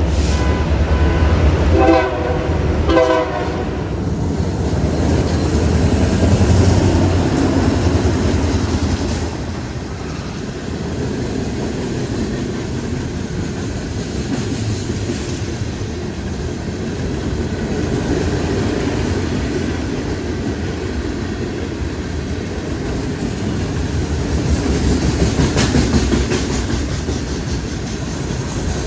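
Diesel freight locomotive horn sounding in a few blasts during the first four seconds, the last two short and sharp, then the locomotives and a long string of freight cars rolling past with a steady rumble and wheels clacking over the rail joints.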